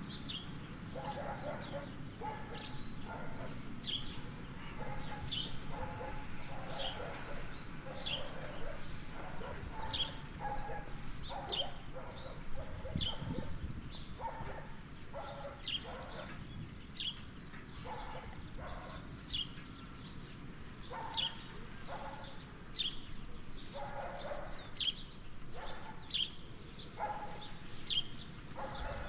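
A small bird chirping over and over, one short high note about every second, with lower animal calls mixed in between.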